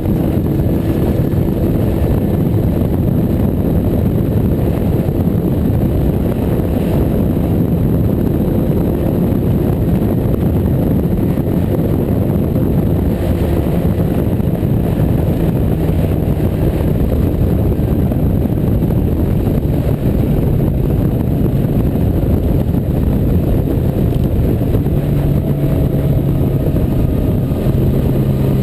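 Motorcycle cruising at road speed: heavy wind rush on the microphone with the engine's steady hum beneath it. The engine note comes through more clearly near the end.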